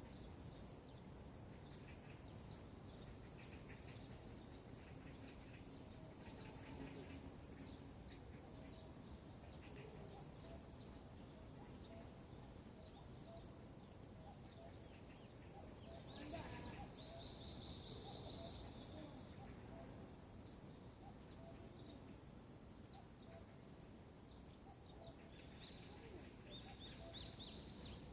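Faint birdsong: several small birds chirping on and off over a low, steady background rumble. About 16 seconds in, one clearer call holds a steady high note for about two seconds, and a quick run of calls comes near the end.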